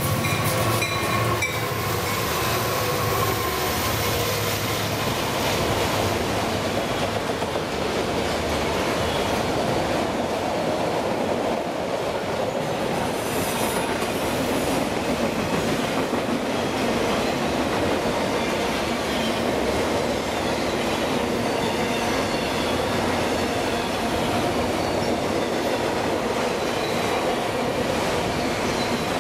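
CSX diesel freight locomotives passing close by, their engines fading within the first couple of seconds, followed by a long string of autorack freight cars rolling past with a steady rumble of steel wheels on the rails and a faint wavering wheel squeal.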